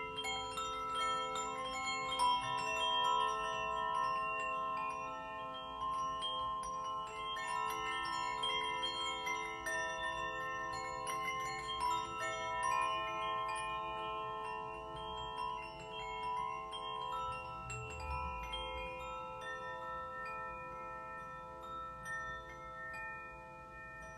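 Struck metal meditation instruments ringing: many overlapping sustained notes, with frequent light tinkling strikes above them.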